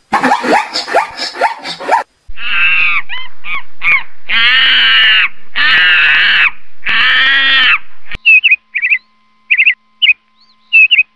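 Zebras barking for about two seconds. Then a monkey's calls follow: a few short cries, then three long, drawn-out calls of about a second each. Near the end come about six short, high bird calls spaced apart.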